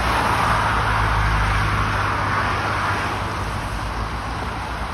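Tractor engine running steadily with a low hum, under a steady rushing hiss.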